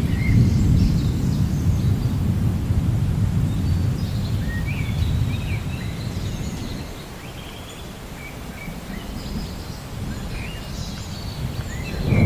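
Low rolling thunder rumble, strong at first, dying down through the middle and building again near the end, with birds chirping over it.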